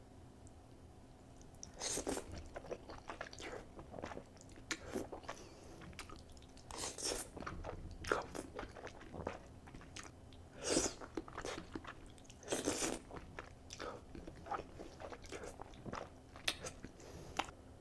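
Close-miked eating sounds of cheesy Buldak ramen noodles being chewed, with irregular louder bursts every few seconds.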